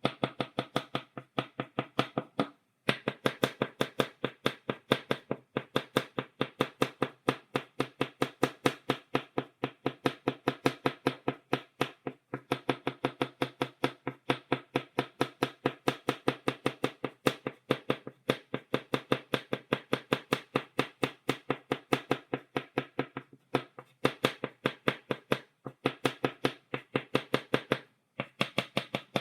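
Chalk tapped point-first against a blackboard in a fast, even run of dry taps, about five a second, stippling dots. The run stops briefly several times before going on.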